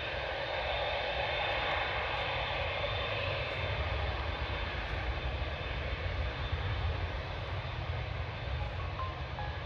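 Jet airliner engines, a steady rushing noise over a low rumble that swells slightly in the first second and then holds level.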